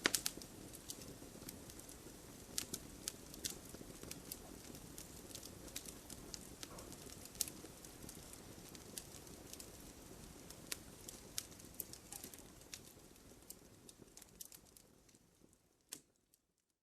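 Wood fire in a fireplace crackling, with sharp pops scattered irregularly over a soft low rush of flame. It fades out to silence near the end after one last pop.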